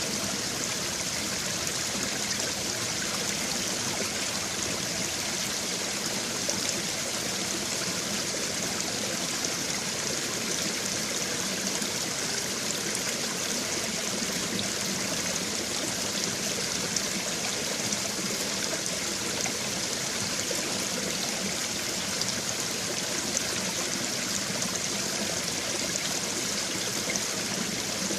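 Babbling brook: shallow stream water running and trickling over stones in a steady, unbroken flow.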